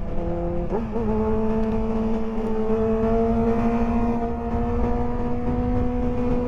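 Motorcycle engine, the rider's Honda CBR600F inline-four, pulling under steady throttle; its note wobbles about a second in, then rises slowly and evenly as the bike gathers speed. Wind rush sits underneath.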